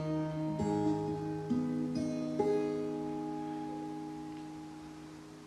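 Acoustic guitar picking a few last single notes, then letting the final chord ring out and slowly fade away at the close of a song.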